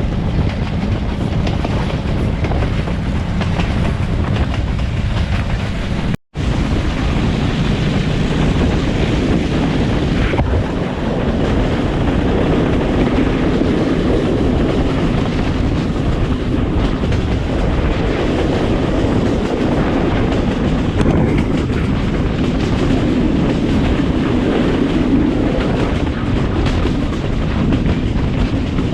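Running noise of a moving express passenger train: a steady rumble with wheels clattering over the rails. The sound breaks off for an instant about six seconds in.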